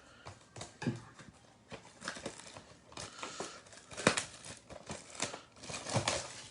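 Trading-card hobby box being opened by hand: wrapper crinkling and tearing, with scattered small clicks and taps of cardboard, the sharpest about four seconds in.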